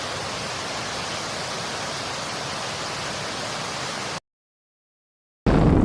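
A steady, even rushing hiss like static that cuts off abruptly about four seconds in. After a moment of dead silence, a louder and deeper rushing noise starts near the end.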